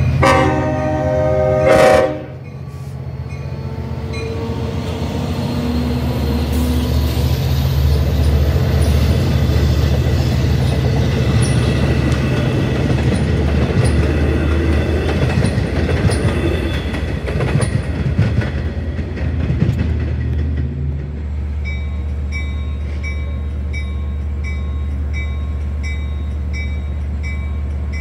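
Long Island Rail Road diesel locomotive horn blowing a chord that stops about 2 seconds in. The diesel train then passes over the crossing, with steady engine drone and the rumble and clatter of bi-level coaches' wheels on the rails. In the latter part, as the train noise drops, a crossing bell dings steadily about twice a second over the idling diesel.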